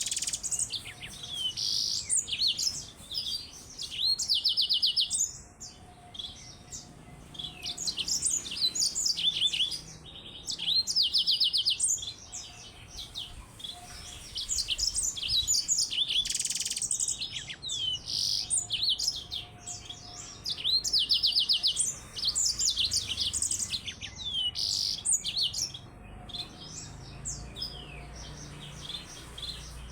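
Yellow-fronted canary (Mozambique canary) singing: high, rapid twittering phrases with fast trills, coming in loud bursts every few seconds with softer chirping in between.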